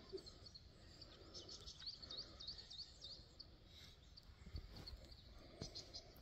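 Faint bird chirping over a quiet outdoor background: a quick run of short repeated chirps a couple of seconds in, then a few scattered chirps later.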